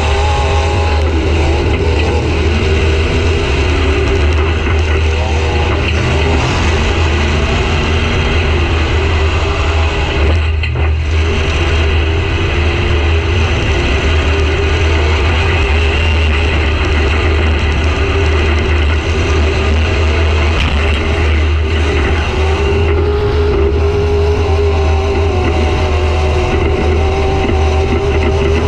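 Demolition derby car's engine running loud, heard from inside the stripped cabin, its revs rising and falling as the car drives, with a brief drop about ten seconds in.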